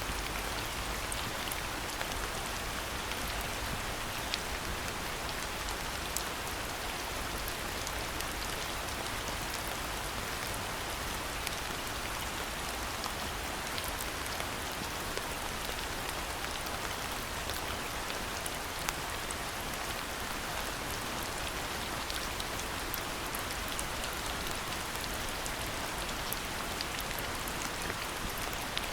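Steady rain falling, an even hiss with scattered sharp drips and splashes.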